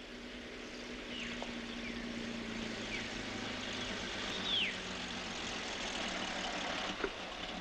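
Car engine running at a low idle with a steady hum, while several short descending bird whistles sound over it; the loudest whistle comes about four and a half seconds in.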